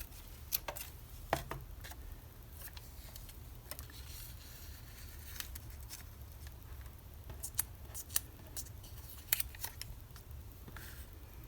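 Scissors snipping paper in scattered short cuts, over a steady low hum.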